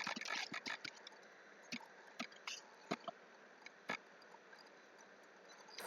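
Computer keyboard typing: a quick run of key clicks at the start, then single, irregularly spaced keystrokes for a few seconds.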